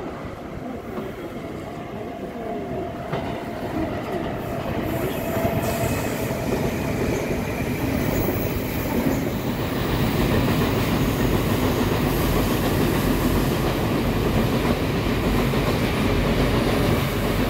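Taiwan Railway Tze-Chiang limited express train running along the line: its running noise grows louder for about ten seconds as it comes closer, then holds steady as the carriages pass. A faint steady whine sounds in the first few seconds.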